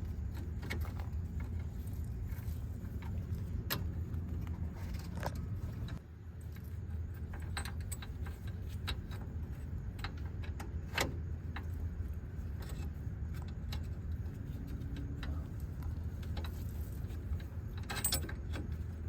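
Scattered light metallic clinks and taps of hand tools and exhaust-clamp hardware being worked into place, over a steady low hum.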